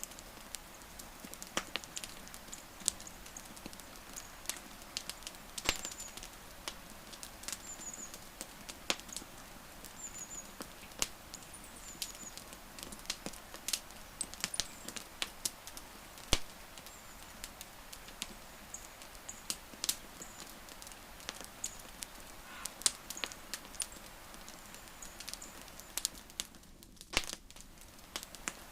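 Wood campfire crackling: irregular sharp pops and snaps over a soft steady hiss of burning wood.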